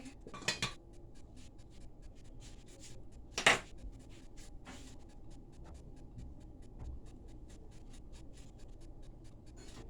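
Rapid, even ticking, about four ticks a second, with a sharp knock about half a second in and a louder knock about three and a half seconds in.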